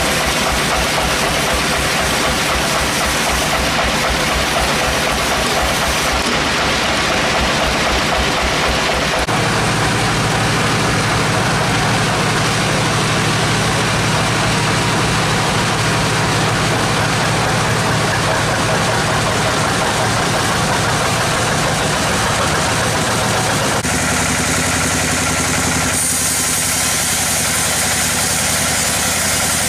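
Sawmill machinery running steadily: an engine-driven saw rig working on hardwood logs. The sound changes abruptly a few times, about a third of the way in and again near the end.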